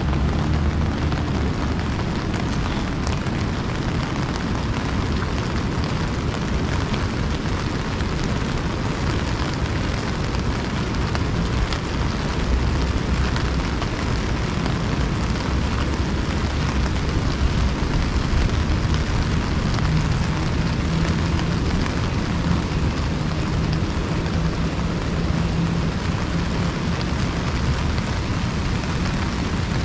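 Rain drumming steadily on an umbrella, a dense, even patter over a low rushing rumble. A faint low hum rises under it in the second half.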